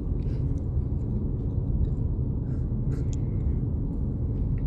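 Steady low rumble of a vehicle driving slowly, engine and tyres on the road, heard from inside the cabin, with a few faint light ticks.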